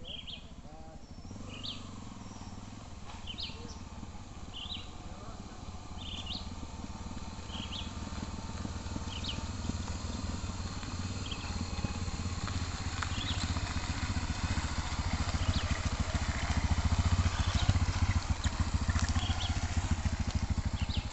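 Motorcycle engine running, a low rumble that grows slowly louder, while a bird calls over it in short high chirps about once a second.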